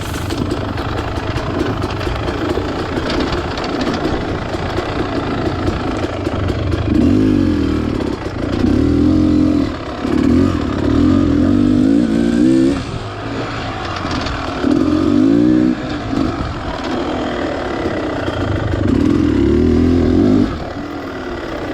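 Two-stroke dirt bike engine, a Beta Xtrainer 300, running and revving in about four or five throttle surges, each a second or two long, over a steady lower running sound.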